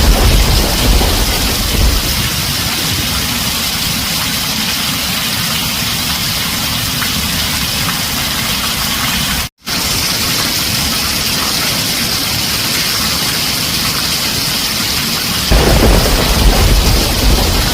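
Heavy rain drumming steadily on a tin roof, with low thunder rumbling at the start, dying away after about two seconds, and rolling in again loudly near the end. About halfway through, the sound cuts out for a split second and then resumes.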